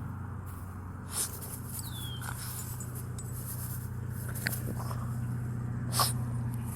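A steady low engine hum, with a few sharp clicks about a second in, near the middle and near the end, and a brief falling whine a couple of seconds in.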